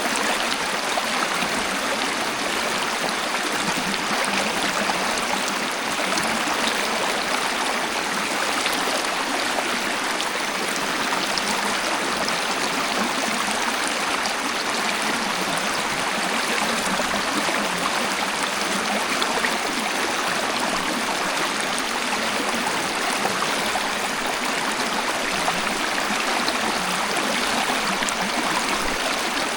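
Waterfall: water pouring and flowing in a steady, unbroken rush with almost no deep rumble.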